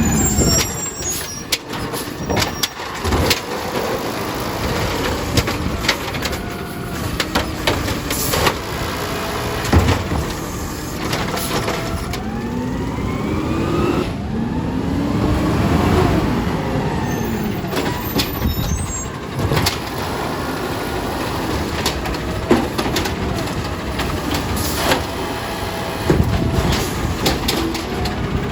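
Garbage truck working its route: the engine runs and revs, with a whine that rises and falls in pitch midway through, and repeated knocks and bangs throughout.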